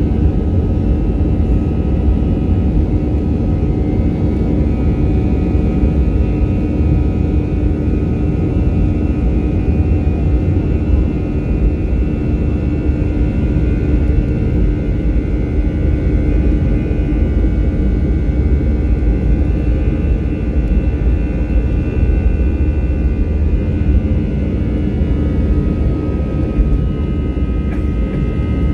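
Airbus A321-212's CFM56 jet engines running at takeoff power: a steady deep rumble with several steady high tones above it.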